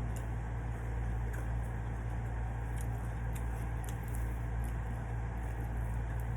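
Steady low hum of an air conditioner running, with faint scattered small clicks on top.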